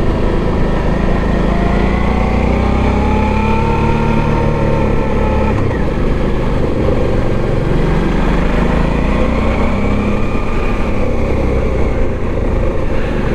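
Motorcycle engine running on the move. Its pitch climbs over the first few seconds, drops off sharply about five and a half seconds in, then rises and falls again as the revs change.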